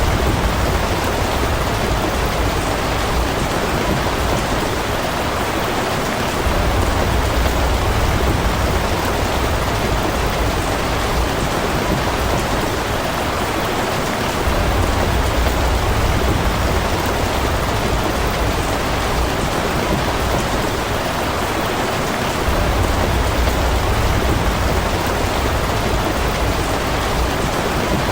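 Steady rain falling, an even hiss of many drops, with a low rumble underneath that swells and fades about every eight seconds.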